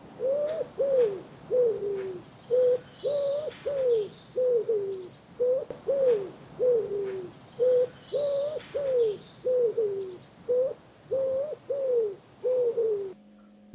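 A dove cooing, about twenty short hooting notes in a repeating phrase, some level and some falling in pitch, with faint chirps of small birds higher up.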